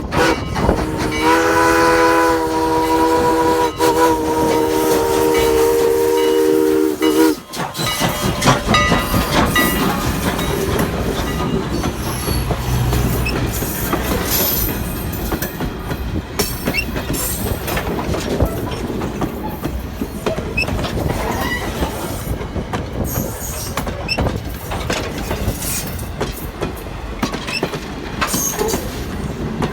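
Strasburg Rail Road No. 89, a 2-6-0 steam locomotive, sounding its chime steam whistle in one long blast of several notes that cuts off about seven seconds in. The train then rolls past, its wheels clacking over the rail joints.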